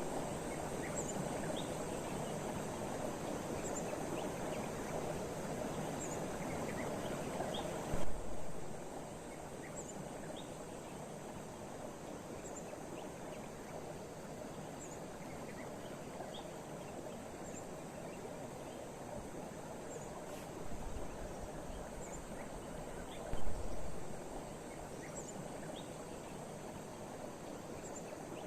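Steady rain hiss with faint high insect chirps repeating every second or two. Two dull thumps stand out, about a third of the way in and again near the end.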